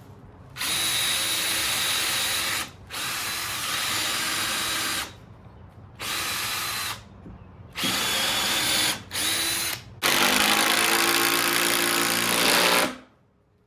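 Power drill run in six separate bursts into timber, the last and longest lasting nearly three seconds before cutting off, with a faint whine in the motor noise.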